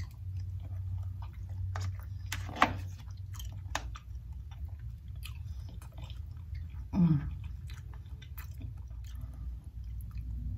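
Close-up chewing of soft steamed cauliflower and vegetables, with wet mouth sounds and many small clicks. There is one sharper click about two and a half seconds in and a short low hum from the eater about seven seconds in.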